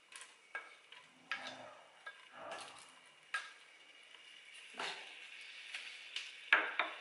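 Sliced garlic pushed off a plate into a steel pot of vegetables frying in olive oil: a faint sizzle under scattered scrapes, clicks and taps of the plate and a wooden spoon against the pot, with a few louder clicks near the end.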